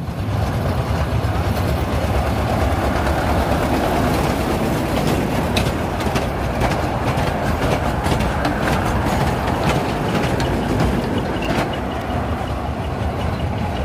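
Narrow-gauge toy passenger train running along its track: a steady rumble of the train, with rail clicks scattered through the middle stretch.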